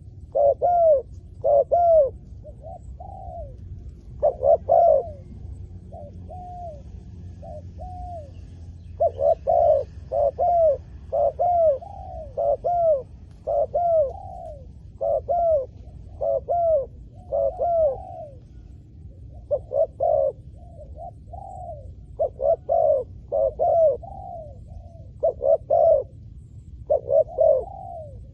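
Spotted doves cooing over and over in groups of short, arched coos. A fainter series of coos comes about three to eight seconds in.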